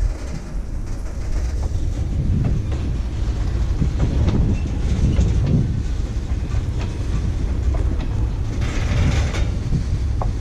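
Ballast train's cars rolling past with a steady low rumble and scattered clicks from the wheels. A brief hiss comes about nine seconds in.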